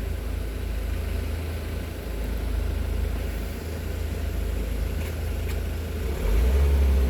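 A road vehicle's engine running with a low rumble, which grows louder about six seconds in.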